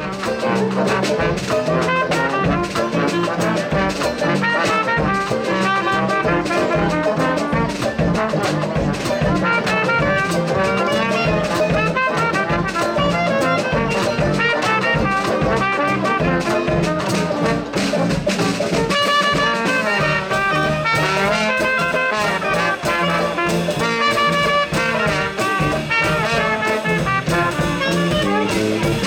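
Swing-style big band music, with a brass section of trumpets and trombones to the fore, playing continuously.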